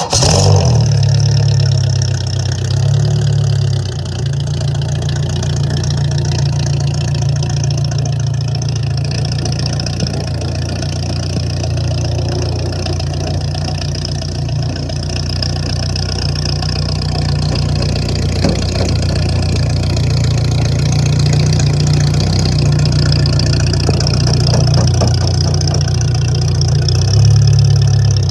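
Demolition derby car's engine starting up and then idling loudly and steadily.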